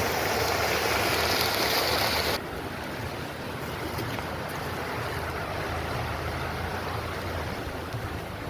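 Rushing water of a stream, a steady wash. Louder and brighter for the first two seconds or so, then it drops suddenly to a quieter, even flow.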